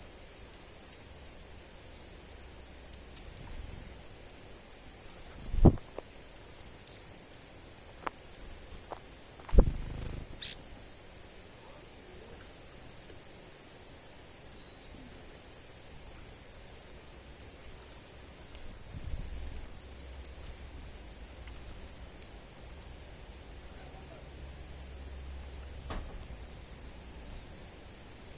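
Small birds giving many short, very high-pitched chirps, irregular and several a second, over a low outdoor hiss. Two brief low thumps come about a third of the way in.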